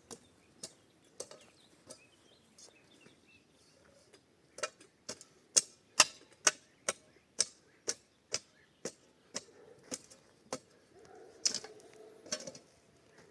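A run of sharp knocks, a few spaced out at first, then about two a second for several seconds, each a short hard hit.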